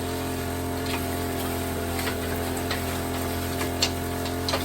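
A motor running at a steady, even hum, with a few light clicks scattered over it.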